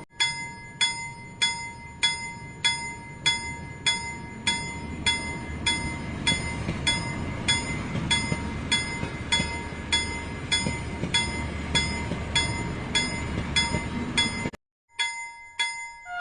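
A toy steam train running along its track with a low, steady rumble, under rhythmic bell-like background music of about one and a half strikes a second. Everything cuts out briefly near the end.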